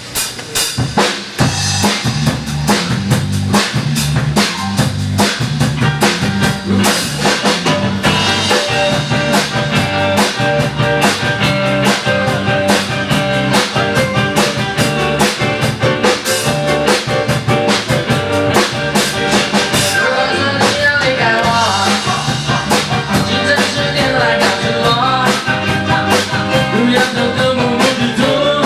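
Rock band playing an instrumental passage: drum kit keeping a steady beat under a repeating bass line, with guitar.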